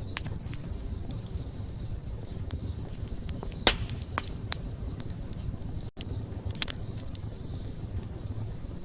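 Wood campfire burning: a steady low rumble of flames with scattered crackles and pops. The sharpest pop comes a little over three and a half seconds in. Just before six seconds in there is a split-second gap in the sound.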